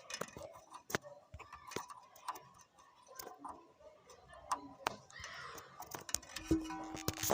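Irregular clicks and light knocks of hand tools and metal parts as someone works on a tractor's radiator drain, with a short hiss-like patch about five seconds in.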